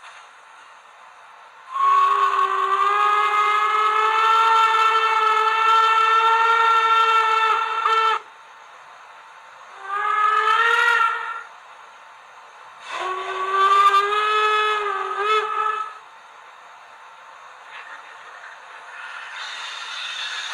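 Model BR 02 steam locomotive's sound decoder (Zimo MX645R with a Henning sound project) sounding its steam whistle through small speakers. There is one long blast of about six seconds, a short blast, then a third of about three seconds that wavers in pitch. A soft steam hiss runs between the blasts and grows louder near the end.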